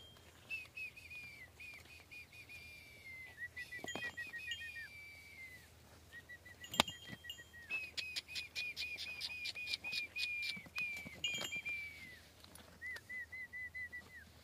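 A bird calling over and over in phrases of quick, short, down-slurred whistled notes, each phrase about a second long, with short gaps between them. A few sharp clicks come in between, the loudest about seven seconds in.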